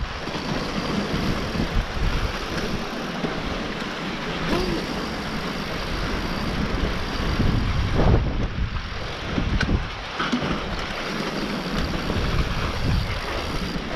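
Wind rushing over the microphone and mountain-bike tyres running over a dirt trail on a fast descent, with a few knocks from the bike.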